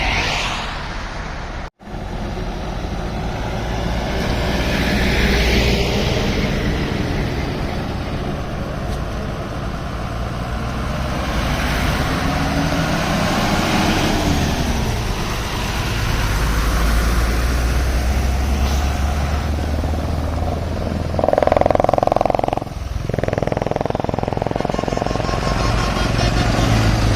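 Truck engine running steadily as the truck drives along the highway. About 21 seconds in there is a loud blare lasting just over a second.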